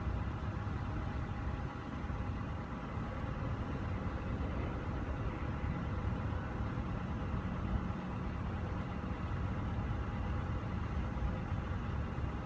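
A vehicle engine idling, a steady low rumble with a faint even hum above it.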